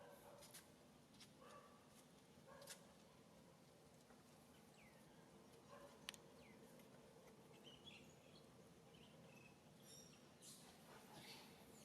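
Near silence: faint outdoor ambience with scattered soft clicks and a few faint high chirps, bunched about ten seconds in.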